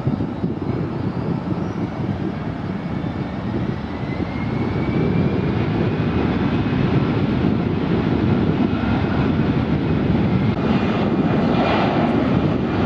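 Jet airliner's engines running at high power nearby, a heavy rumble that grows louder through the middle, with a faint rising whine early on.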